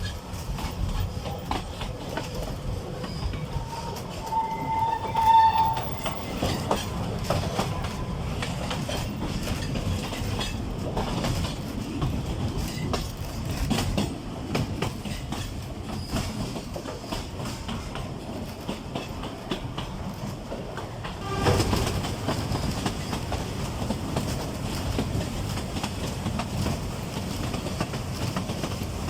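Narrow-gauge forest railway train hauled by an Mk48 diesel locomotive running along the track, with a steady rumble and the wheels clicking over rail joints. A brief high tone sounds about five seconds in, and the running noise swells louder for a moment about twenty-one seconds in.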